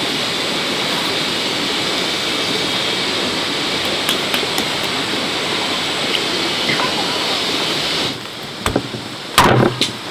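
Heavy rain pouring down, a steady even hiss. About eight seconds in it drops to lighter rain, with a few small clicks and one brief loud noise a second or so later.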